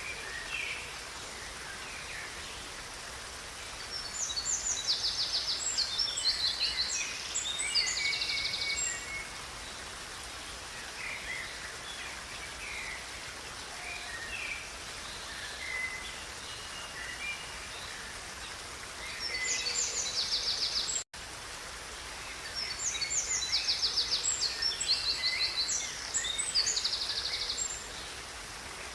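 River water running steadily, with a songbird singing two long bouts of rapid, high trilled phrases, from about 4 s in and again from about 20 s in. The sound cuts out for an instant about 21 s in.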